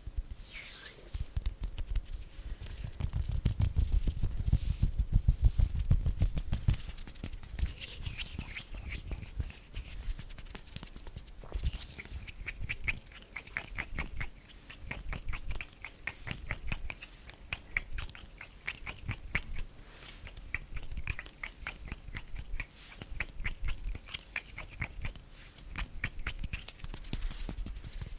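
Close-miked ASMR hand sounds: skin rubbing and brushing with a heavy low rumble a few seconds in, then a long run of fast, light finger taps and clicks from about the middle on.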